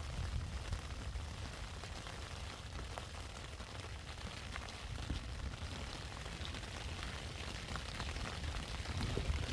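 Wind buffeting the microphone in a steady low rumble, with light rain pattering in scattered faint ticks.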